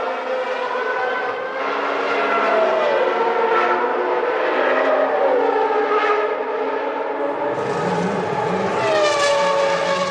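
Formula One cars' high-revving naturally aspirated 3.5-litre engines running at race speed, their pitch dropping several times as they shift down or pass by. A lower engine note joins about three-quarters of the way through.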